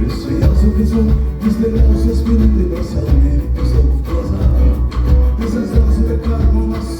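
Live band playing an instrumental passage, with a strong bass pulsing in a steady beat.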